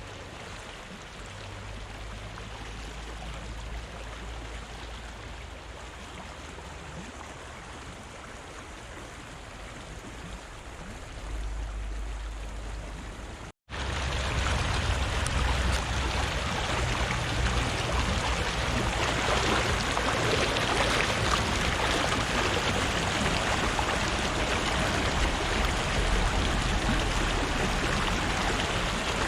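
Fast-flowing river rushing steadily. About halfway through it drops out for an instant and comes back louder.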